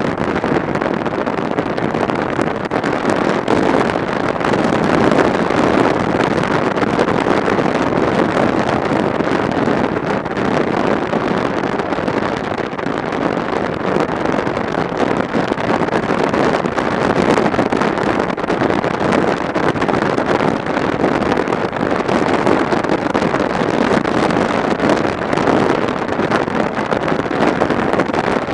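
Motorcycle riding at road speed: steady, loud wind rush over the camera microphone mixed with engine and road noise.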